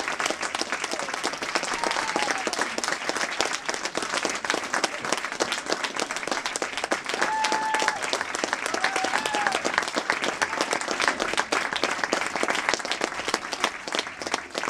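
Audience applauding, a dense, steady clatter of many hands clapping. A few brief voices call out about halfway through.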